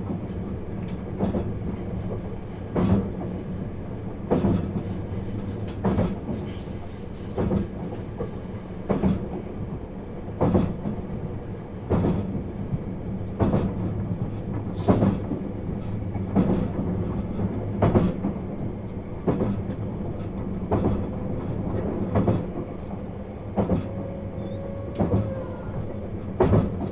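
Running sound inside a 651 series electric train car at steady speed: a constant low rumble and hum, with the wheels clacking over rail joints evenly about every one and a half seconds.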